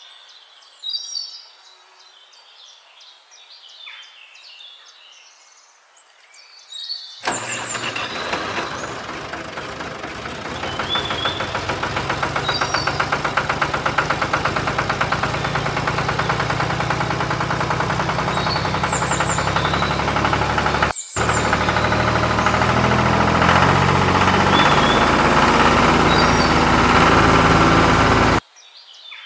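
Birds chirping, then about seven seconds in a diesel tractor engine starts and runs steadily, growing louder a few seconds later, with the birds chirping over it. It cuts out for an instant about three-quarters of the way through and stops abruptly near the end.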